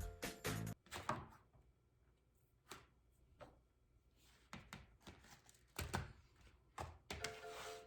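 Scattered knocks and taps of kitchen preparation, such as utensils and bowls being handled. Background music stops near the start and comes back in near the end.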